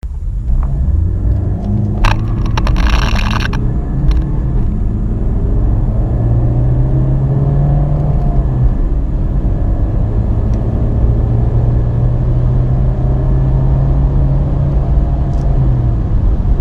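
BMW 320d four-cylinder turbodiesel accelerating hard from a standstill. The engine note climbs slowly and drops back twice as it shifts up through the gears. A brief clattering noise comes about two seconds in.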